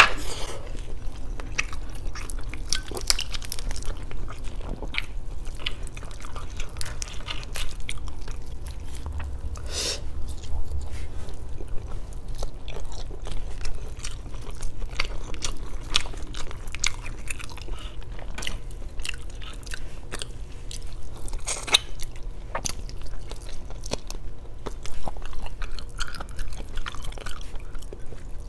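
A person chewing chicken adobo and rice, close to the microphone: wet mouth clicks and smacks come irregularly throughout, a few of them louder.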